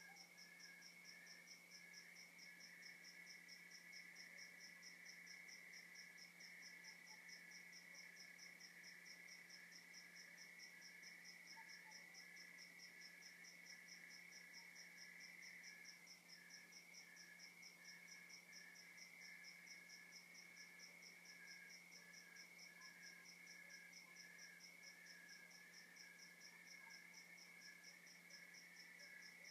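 Faint night chorus of crickets and other insects chirping without a break. One keeps an even, rapid pulse high up, while others trill steadily lower down, over a faint steady low hum.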